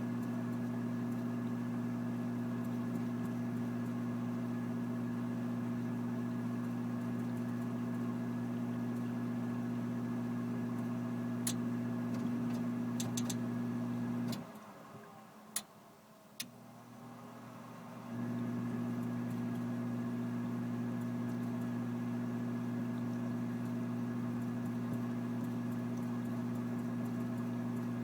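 Furnace running with a steady electric hum that shuts off about halfway through and starts again about four seconds later, with two sharp clicks while it is off: the furnace short cycling.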